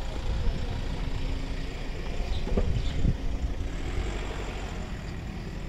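A car engine idling steadily with a low rumble. There are two soft thumps about halfway through.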